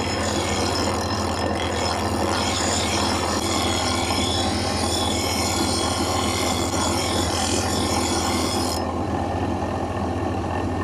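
Steel being ground on a powered grinder, the motor humming steadily under a rasping hiss. The rasping stops near the end while the motor keeps running.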